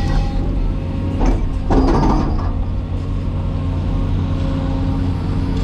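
Caterpillar 336E excavator's diesel engine running steadily. About a second in, a brief mechanical clatter and creak rises over it and fades after a second or so.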